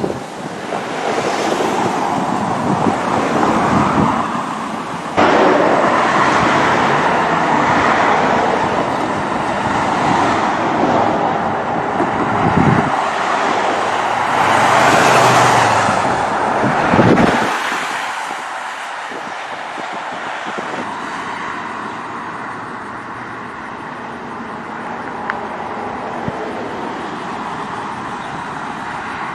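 Road noise of cars driving at speed: a dense rush of engine, tyre and wind noise that swells and fades, with an abrupt jump in level about five seconds in.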